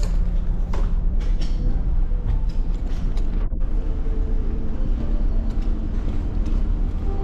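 Steady low rumble of a running vehicle or ship engine, with scattered clicks and creaks over it.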